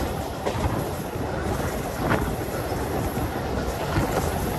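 Suburban electric commuter train in motion, heard from aboard: a steady rumble of the wheels on the rails with a few faint clicks.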